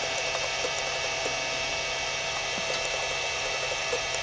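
Steady electrical hum and hiss, with a few faint clicks.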